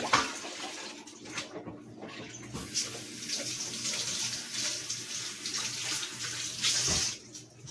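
A faucet running into a sink as hands are washed under it; the water comes on about two and a half seconds in as a steady hiss and shuts off shortly before the end.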